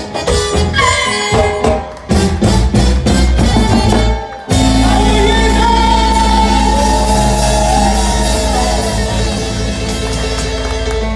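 Band playing Panamanian música típica, with percussion driving the beat; about four and a half seconds in the rhythm stops and the band holds one long chord.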